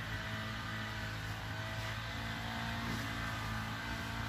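A steady low mechanical hum with a faint higher whine, unchanging throughout.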